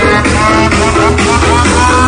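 Electronic dance music blasting from a paredão car sound system: heavy steady bass under a bright synth lead.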